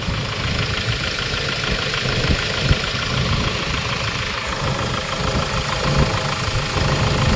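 Hyundai Starex diesel engine running with a loud, steady fuel knock. The mechanic puts the knock down to worn fuel injectors, with the number 4 injector showing the heaviest backleak.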